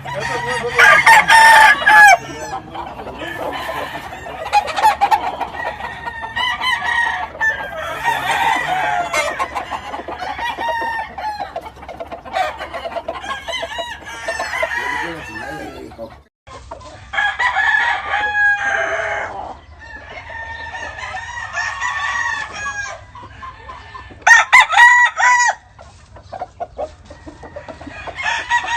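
Several game roosters crowing, their calls overlapping one another. The crowing is loudest near the start and again about 25 seconds in, with a brief break about 16 seconds in.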